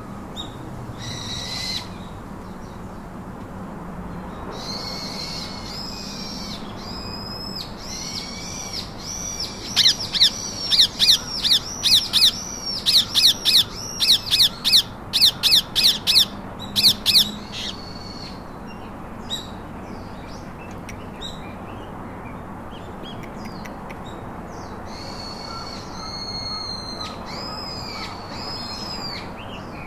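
Pet parakeets calling: scattered chattering calls, then a loud run of sharp, repeated screeches at about two a second for some seven seconds, with more chattering calls near the end.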